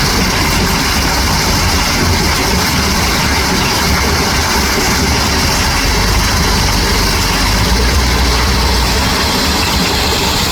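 Heavy diesel truck engine running steadily, with a deep rumble under a dense, even noise.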